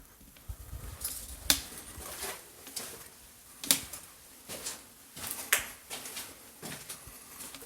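Footsteps on a debris-strewn floor: irregular sharp clicks and crackles underfoot, a few of them louder snaps.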